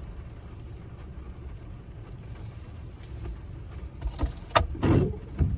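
Car cabin noise while driving: a steady low rumble of engine and road. A few short knocks and clatters come about four to five and a half seconds in.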